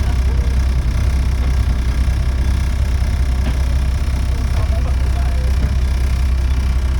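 Volvo B7TL bus's six-cylinder diesel engine running steadily, heard on board as a deep, even drone, with the hoarse note of its blown exhaust.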